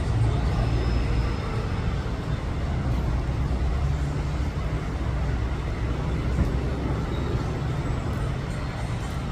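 A steady low mechanical rumble under an even hiss, easing slightly in level.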